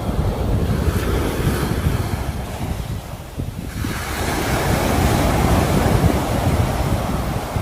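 Sea waves breaking and washing on the shore, with wind noise on the microphone. The surf eases about three seconds in, then swells again as the next wave comes in.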